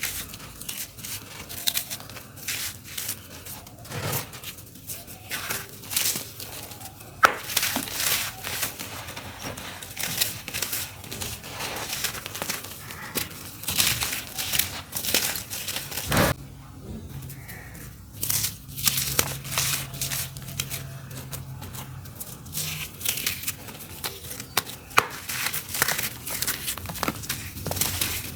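Dry, crunchy dirt clumps crumbled by hand: irregular crunching and crackling, with two sharper cracks, one about seven seconds in and one about sixteen seconds in.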